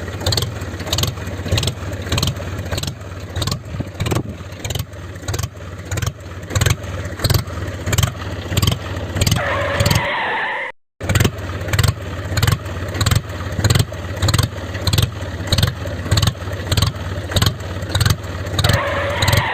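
Tractor engine chugging in an even rhythm of about two beats a second, with a rising whine near ten seconds in and again near the end. The sound drops out briefly about ten and a half seconds in, then the same chugging starts again.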